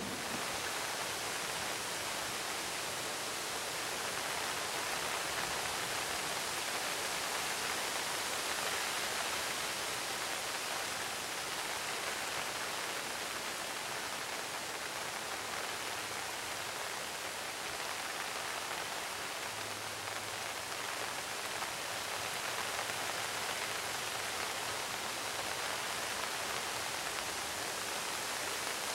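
Finnish candle (a split log burning from the top) giving off a steady, even hiss, with no distinct crackles or pops.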